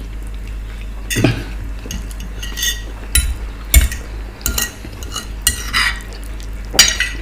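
Spoon scraping and clinking on a plate of rice and stew while eating: a string of short, separate scrapes and clicks.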